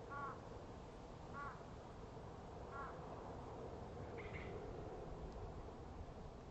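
A crow cawing: three short calls about a second and a half apart, then a higher, shorter bird call about four seconds in, over a steady background hum.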